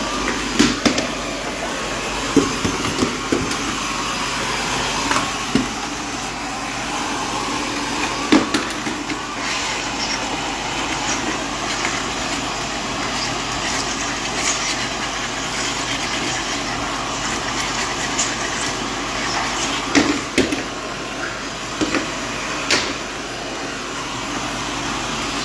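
Vacuum cleaner running steadily, with occasional sharp knocks and clicks as it works over the floor.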